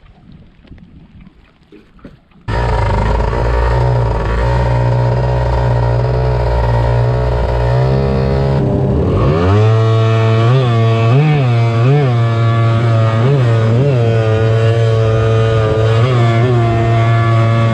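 A micro jet boat's single-cylinder two-stroke Kawasaki JS300 jetski engine cuts in suddenly about two and a half seconds in and runs steadily. About nine seconds in, the revs climb and then waver up and down again and again.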